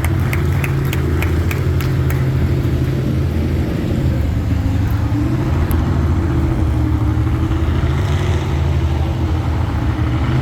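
Large vehicle engine running steadily, with a run of sharp clicks, about three a second, during the first two seconds.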